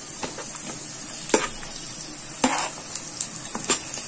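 Chopped pirandai (adamant creeper) stems frying in hot oil in a kadai, with a steady sizzle. A spatula stirring them clicks against the pan several times.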